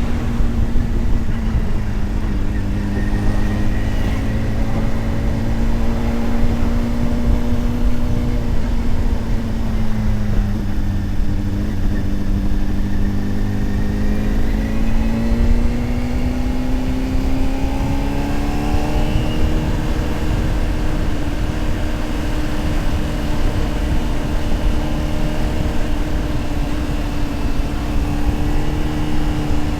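Honda CBR600RR's inline-four engine running at steady cruising revs, easing off slightly about a third of the way through, then rolling back on throttle and holding higher revs. Heavy wind rumble on the microphone throughout.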